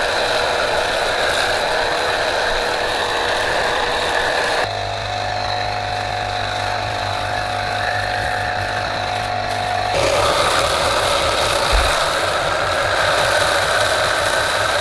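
Steady, loud mechanical noise in three sections that change abruptly about five and ten seconds in.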